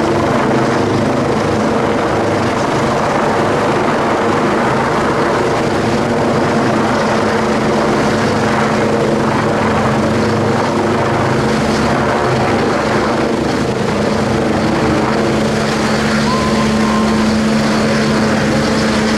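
Helicopter hovering overhead during a hoist rescue, its rotor and turbine running steadily at a constant pitch.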